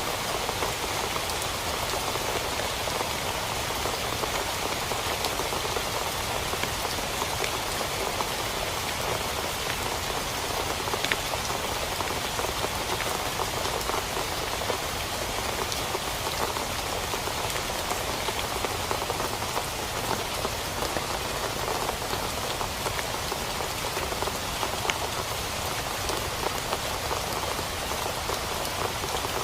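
Steady rain falling on a tent, with many single drops ticking sharply through the even hiss.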